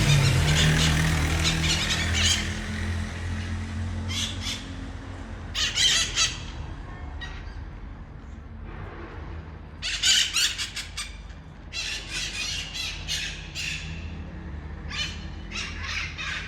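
A flock of red-masked parrots giving harsh, noisy squawks in bouts, with quieter gaps of a second or two between bursts of calling.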